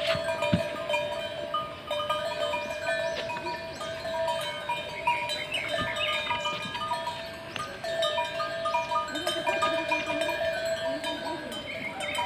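Cowbells on grazing cows clanking irregularly, several bells ringing together at different pitches.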